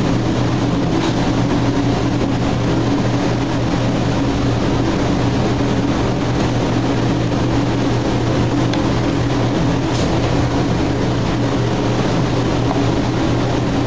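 A steady machinery drone with a low hum that does not change throughout, with a couple of faint clicks.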